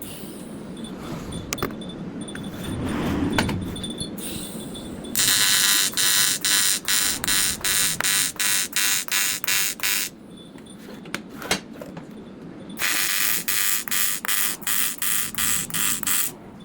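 TIG welding arc on aluminium intercooler pipe, buzzing harshly in two runs, the first starting about five seconds in and lasting about five seconds, the second shorter and starting near thirteen seconds. The arc pulses evenly, about three beats a second.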